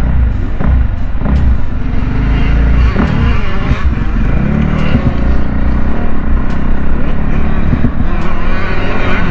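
Motocross bike engines revving up and down as they ride, with a heavy low rumble underneath.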